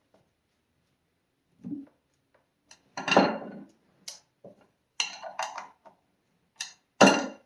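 Irregular metal and hard-object clanks and knocks from chainsaw parts and tools being handled on a workbench. The clanks are loudest about three seconds in and again near the end.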